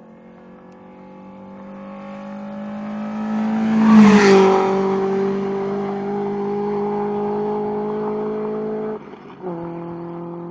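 Car engine running hard at high revs. It grows louder to a peak about four seconds in with a slight drop in pitch, then holds a steady note. It cuts out briefly about nine seconds in and resumes a little lower.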